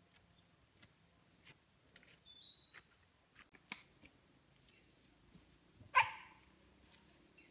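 A single short animal bark about six seconds in, the loudest sound here, with faint bird chirps and a few light clicks before it.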